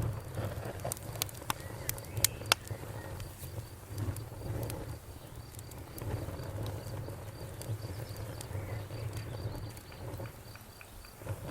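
Bonfire crackling with sharp pops, most of them in the first two and a half seconds, over a low steady rumble of the fire. Crickets chirp in a steady, even pulsing behind it.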